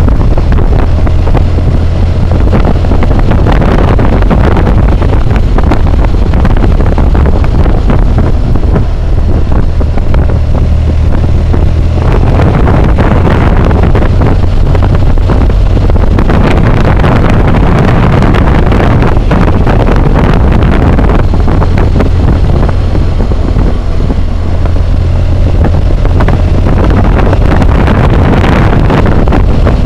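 Loud wind roar on a helmet-mounted camera's microphone while riding a BMW motorcycle at road speed, with the engine running steadily underneath. The roar swells and eases a little at times but never drops away.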